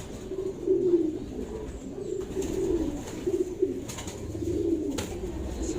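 Racing pigeons cooing, a run of low warbling coos about one a second, with a single sharp click about five seconds in.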